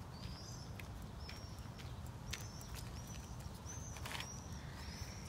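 A small bird chirping over and over, one short high chirp about once a second. Faint crunching steps on gravel come and go underneath.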